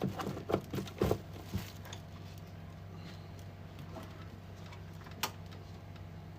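A few short clicks and knocks, clustered at the start with one sharp click near the end, over a steady low hum.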